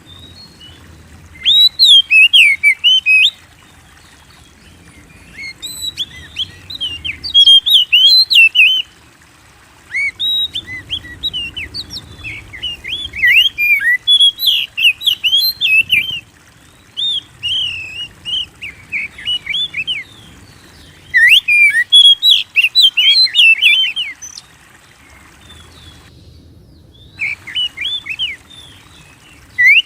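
Oriental magpie-robin (kacer) singing energetically in repeated bursts of fast, varied whistled and chattering phrases, each a few seconds long, with short pauses between them.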